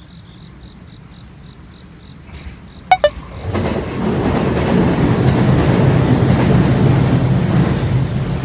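A train gives two short horn toots about three seconds in, then runs by with a loud, steady rushing rumble. Before the toots, a faint high beeping repeats about four times a second.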